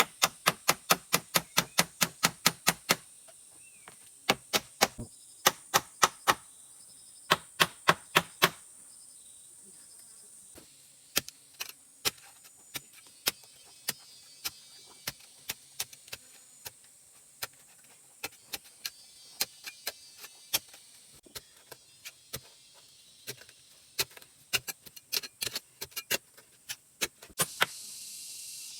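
Series of sharp knocks from hand work with a tool, fast and even at about four a second at first, then in short groups, then lighter and more widely spaced. A steady hiss starts near the end.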